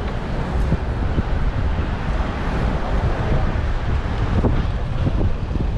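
Wind buffeting the microphone of an action camera mounted on a moving bicycle, a steady low rumble with a few light knocks from the bike as it rides.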